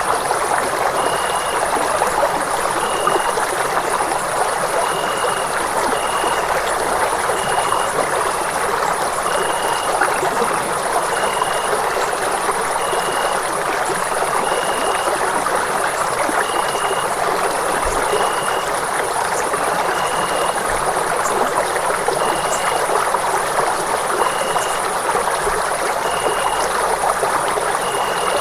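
Running water rushing steadily, an even, unbroken stream sound. A short high chirp repeats about once a second over it.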